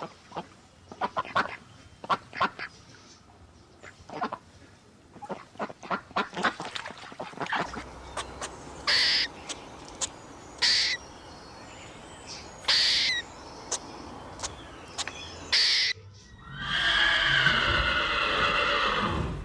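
Ducks quacking in a quick string of short calls, then four loud, harsh bird screeches about two seconds apart, and a long wavering call near the end.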